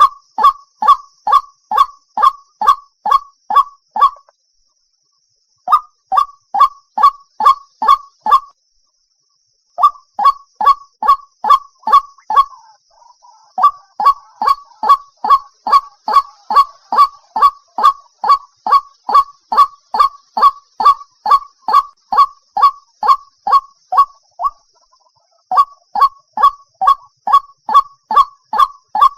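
White-breasted waterhen (ruak-ruak) calling: a long run of harsh, honking 'kruak' notes repeated a little over two a second, broken by two short pauses about 4 and 9 seconds in. A faint steady high hiss runs behind.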